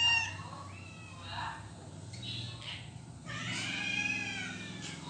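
A cat meowing several times in short calls, the last meow longer and loudest, rising then falling in pitch.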